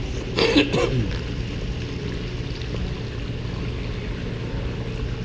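Steady low hum with running, trickling water, typical of a turtle tank's filter pump. About half a second in there is a brief sliding, voice-like sound.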